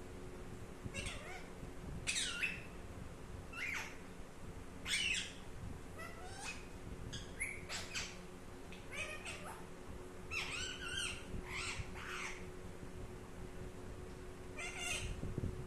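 Pet Indian ringneck parrot whistling and calling in short, separate notes, about a dozen of them, several gliding up or down in pitch.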